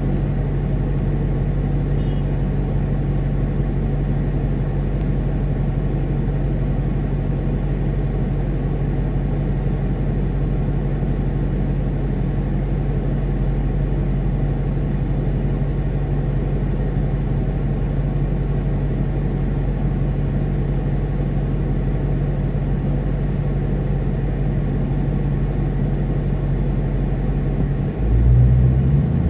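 Dodge Challenger R/T's V8 idling steadily at a stop, heard from inside the cabin. About a second before the end the engine note changes and gets louder as the car pulls away.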